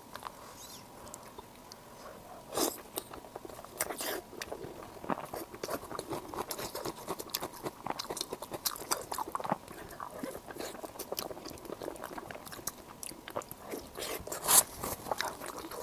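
Crispy pork skin rolls being bitten and chewed: a sharp crunching bite about two and a half seconds in, then steady crackly crunching as they are chewed, with one louder crunch near the end.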